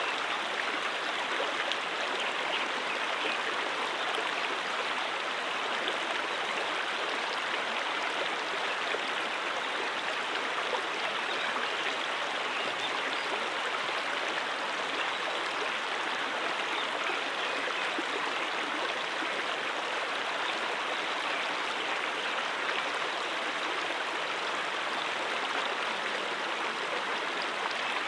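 A stream running over rocks: a steady, even rush and babble of flowing water.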